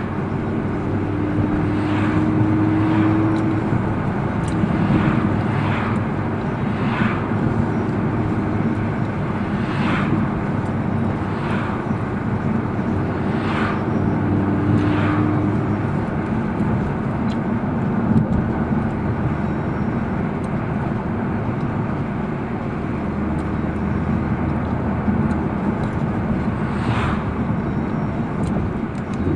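Car running on the road: a steady engine-and-road drone, with a dozen or so brief sharper noises standing out over it.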